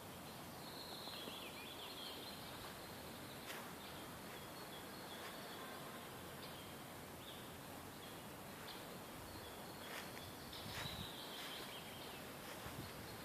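Faint forest ambience: a steady outdoor hiss with a few short, distant bird chirps, near the start and again about ten seconds in.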